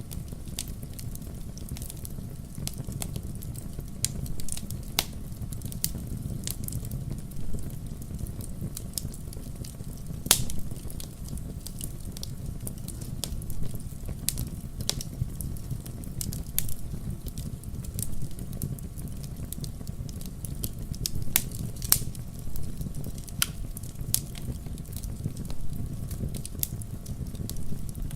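Fire in a fireplace crackling, with irregular sharp snaps and pops over a steady low rumble. A louder pop comes about ten seconds in and another about twenty-two seconds in.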